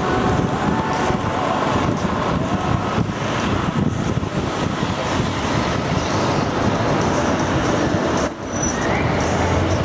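Steady, loud city street traffic noise heard while riding, with a brief drop in level about eight seconds in.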